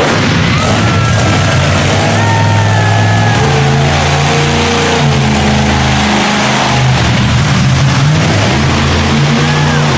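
Monster truck engine revving loud and hard, its pitch rising and falling repeatedly.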